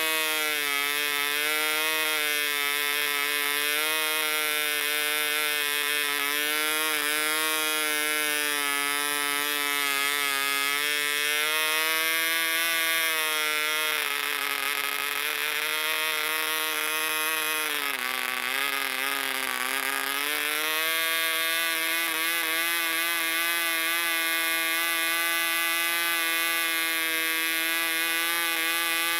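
Barbini B.38 1cc model diesel engine running with a 7x4 propeller, a high buzzing note whose pitch wavers unevenly. About two-thirds through, the pitch sags for a couple of seconds, then picks up and settles into a steadier, slightly higher note. The uneven running is put down to the engine being new and not yet broken in.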